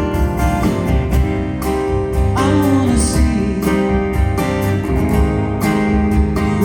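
Live band music: guitars over bass and drums at a steady beat, with a voice singing a line from a little over two seconds in.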